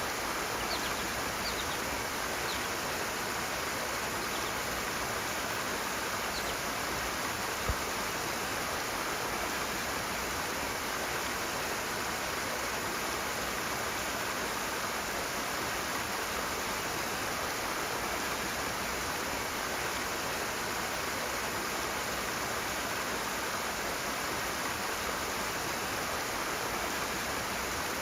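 Rushing water, a steady, unbroken rush of flowing stream water. One brief low knock about eight seconds in.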